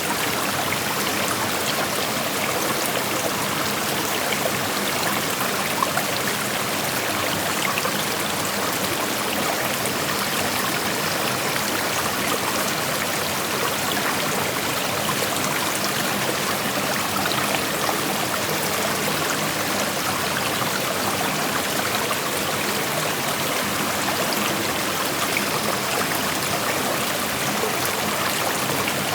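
Creek water flowing steadily over rocks, a continuous rushing with small splashes and trickles throughout.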